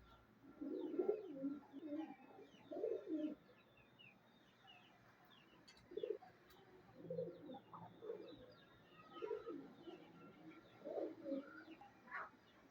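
Pigeons cooing in repeated low phrases, with faint high chirps of small birds in the background.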